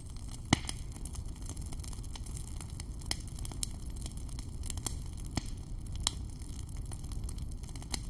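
Wood fire burning: a steady low rush of flame with frequent crackles and pops of burning sticks, the sharpest pop about half a second in.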